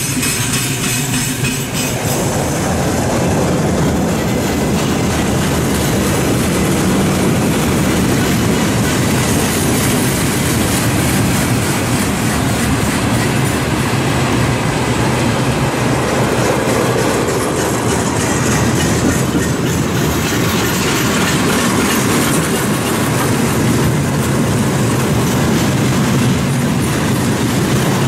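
Long freight train of gondola cars and then tank cars rolling past, a loud, steady rumble and rattle of wheels on the rails.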